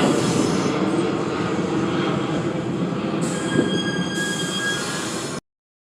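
R46 subway train running through the station, a dense steady rumble of wheels on rail that slowly fades. About three seconds in, a high wheel squeal sounds for nearly two seconds, and then the sound cuts off suddenly.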